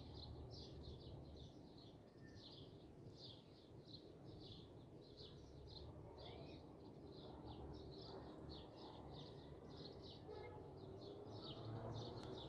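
Faint, continuous high chirping from small birds, short notes repeated about three to four times a second, over a low background hum.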